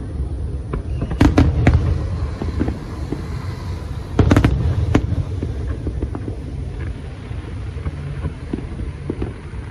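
Aerial fireworks: a continuous deep rumble of bursting shells, with clusters of sharp cracks about a second in and again about four seconds in, easing toward the end.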